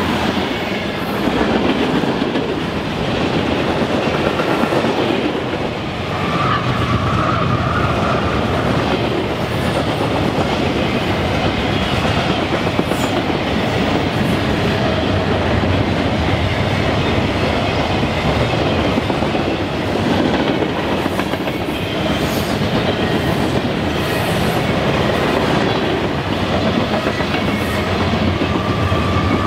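Train rolling past close by: a steady rumble of railroad car wheels on the rails, with a brief high wheel squeal about seven seconds in and again near the end.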